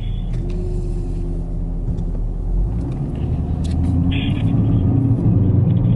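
Car engine and road rumble inside a moving car, a low steady drone that rises in pitch and grows louder about halfway through as the car accelerates.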